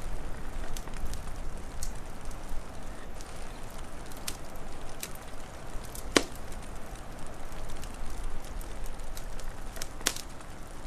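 Wood fire crackling, with scattered sharp pops; the loudest comes about six seconds in and another strong one near the end. A steady low rush of noise runs beneath.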